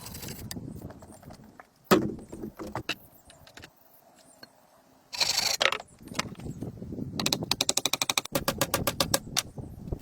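Building work with tools: a sharp knock about two seconds in, a short harsh burst of noise around the middle, then rapid rattling clicks, about a dozen a second, for a couple of seconds.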